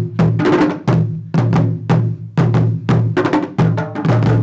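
A West African drum struck in a steady rhythm, about three strokes a second, each stroke carrying a low ringing tone.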